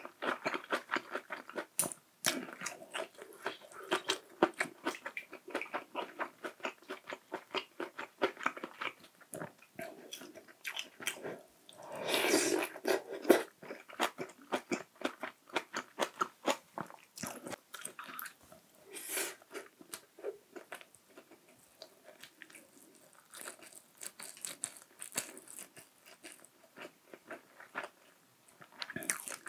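Close-miked eating: a person chewing and biting food, in many quick, irregular clicks, with a louder, longer stretch about twelve seconds in.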